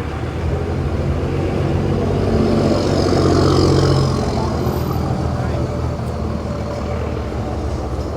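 A motor vehicle's engine running close by, growing louder for a couple of seconds around the middle and then easing off as it passes, over a background of people's voices.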